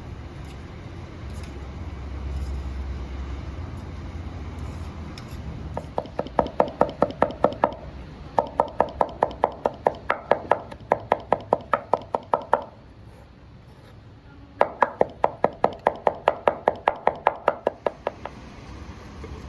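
A knife chopping rapidly on a cutting board, about five even strikes a second, in three runs with short pauses between them.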